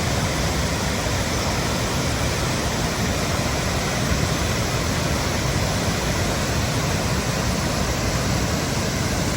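Water pouring over a large waterfall: a steady, even rush of falling water with no break or change.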